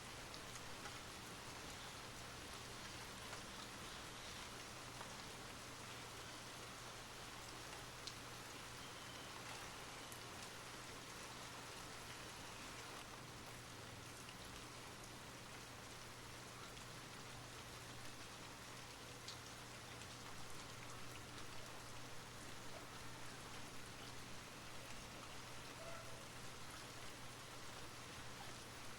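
Steady soft rain falling, an even hiss with occasional single drop ticks, over a faint steady low hum.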